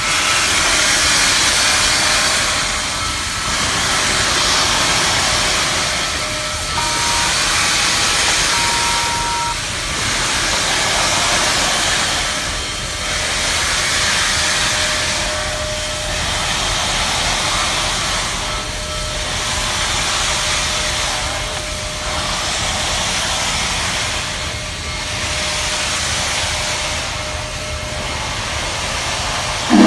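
Union Pacific Big Boy steam locomotive pulling out, with loud steam hiss that surges and eases about once every three seconds as it works slowly away. Its steam whistle starts right at the very end.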